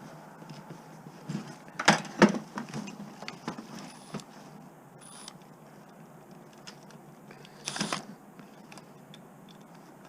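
Hand tools and metal parts clinking and knocking while scrap is dismantled by hand. There are two sharp knocks about two seconds in, then scattered light clicks, and a short scraping rustle near the end.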